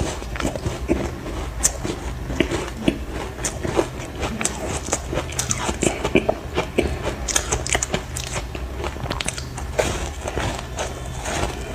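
Close-up crunching and chewing of hard ice chunks: many sharp, irregular cracks as the ice breaks between the teeth.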